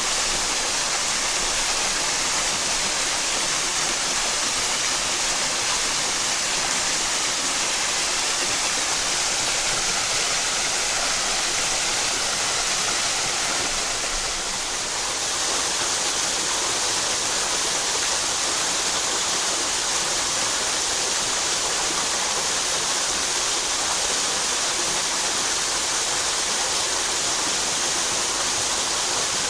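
Headwater mountain stream rushing and splashing over rocks in a steady, full rush of water. The sound dips slightly for a moment about halfway through.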